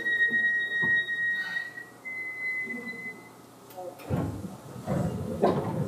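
Inside a Seibu 2000 series train car: a steady high electronic tone steps slightly up in pitch about two seconds in and stops about a second later. Near the end come several loud, irregular rushing knocks.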